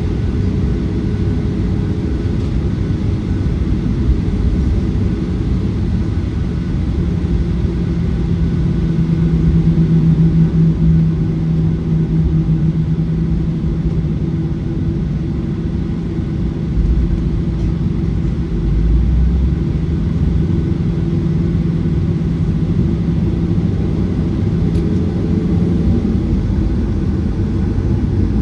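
Boeing 737-900ER's CFM56-7B jet engines heard from inside the passenger cabin: a steady, loud rumble with a low hum that comes up about a quarter of the way in and fades near the end.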